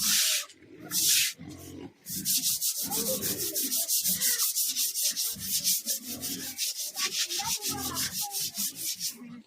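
A broom scrubbing a pig pen floor: two longer sweeps at the start, then fast, even back-and-forth strokes, about six or seven a second.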